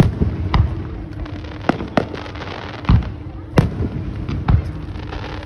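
Fireworks display: aerial shells bursting overhead, about eight sharp bangs at irregular intervals, some trailing a low rumble, over a steady low hum.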